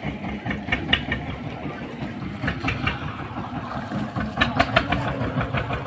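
An engine running steadily at low pitch, with sharp knocks at intervals: a few about a second in and a quick cluster near the end.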